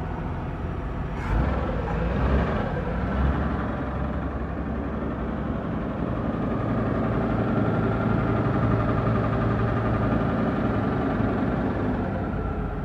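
Chevrolet engine idling steadily, with a few brief louder bumps in the first few seconds.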